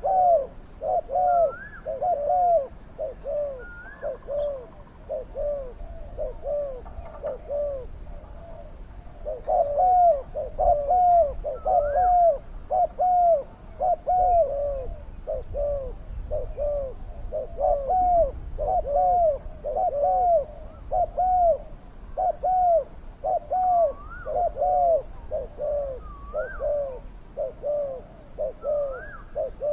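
Spotted doves cooing: long runs of short, arched coos, about two a second, with a lull about six seconds in, and fainter, higher coos from another dove now and then.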